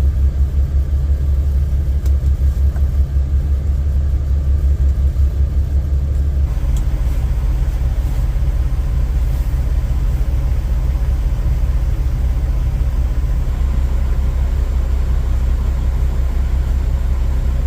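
Low, steady rumble of an idling truck engine, whose texture changes about six and a half seconds in.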